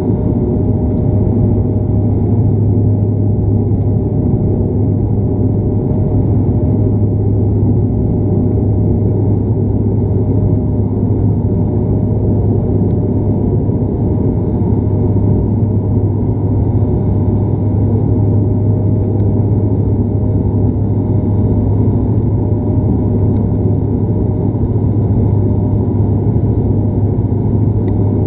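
Bombardier Dash 8 Q400 turboprop heard from inside the cabin in flight: a loud, steady drone from the propellers and engines, dominated by a deep hum with a fainter wavering higher tone over a rushing noise.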